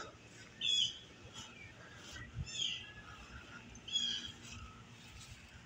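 A songbird giving a short, high call three times, spaced about one and a half to two seconds apart, over a faint outdoor hiss.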